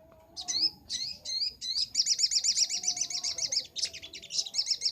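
Sogok ontong (little spiderhunter) calling: a few sharp, separate high chirps, then from about two seconds in a fast, rapid run of high chirps, several to ten a second, that goes on to the end.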